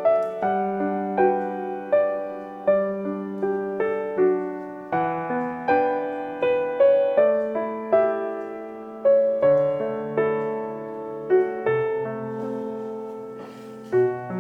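Soft background piano music playing a gentle melody over a steady accompaniment.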